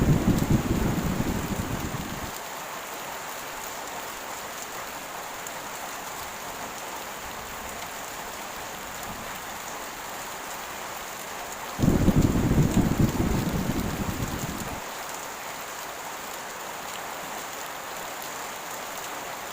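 Heavy rain falling steadily with an even hiss, and thunder rumbling twice: one roll fading out in the first two seconds, another breaking in suddenly about twelve seconds in and dying away over about three seconds.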